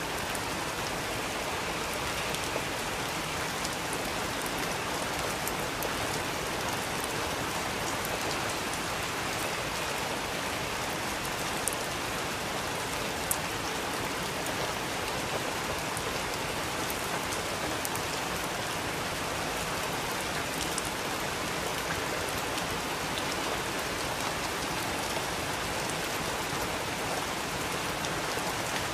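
Steady rain falling, an even hiss with scattered sharp drips and taps of individual drops hitting a surface.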